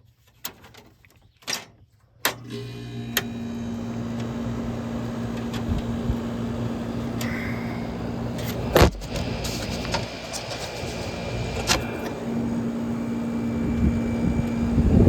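1970 Westinghouse casement air conditioner with a Bendix compressor starting up: a few switch clicks, then about two seconds in the fan and compressor come on and run steadily with a low hum. A sharp click comes about nine seconds in, with a few fainter ones around it.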